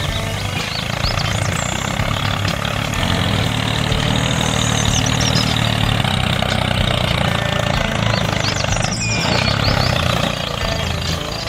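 An engine running at a steady idle, with a continuous low hum.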